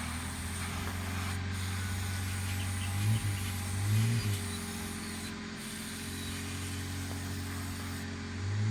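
A motor or engine humming steadily, its pitch swelling up and back down briefly a few times, over a faint hiss.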